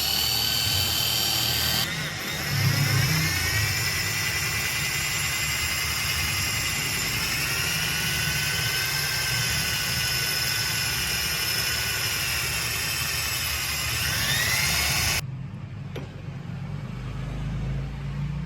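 Handheld electric power tool running with a steady high motor whine, its pitch sagging and recovering as it is worked against the metal. The whine cuts off abruptly about fifteen seconds in, leaving a lower rumble.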